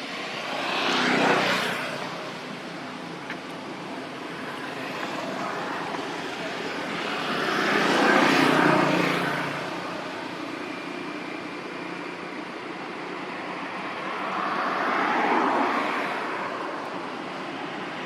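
Motor vehicles passing by one after another, three pass-bys each swelling and fading over a couple of seconds, with a steady engine drone between them.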